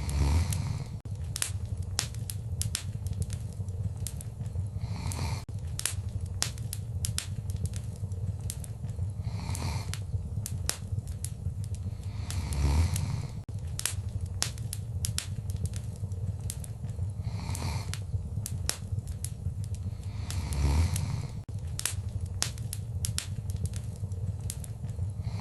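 Wood fire in a fireplace crackling: a dense run of sharp pops and snaps over a steady low rumble. Every few seconds there is a louder swell, the biggest about halfway and again near the end.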